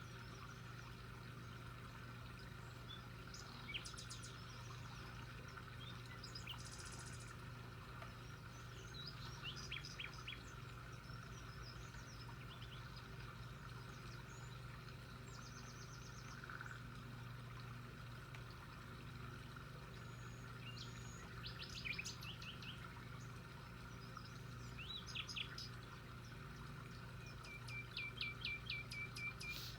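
Birds chirping and calling now and then, in short high notes and quick trills, with a rapid run of notes near the end. A steady low hum lies beneath.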